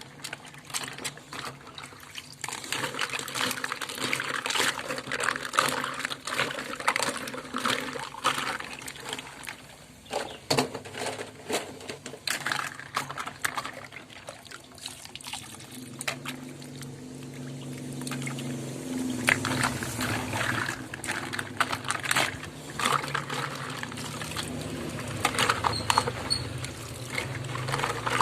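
Water pouring and splashing over plastic toy cars, with frequent light clicks and knocks of the toys. A steadier, lower running-water sound joins about halfway through.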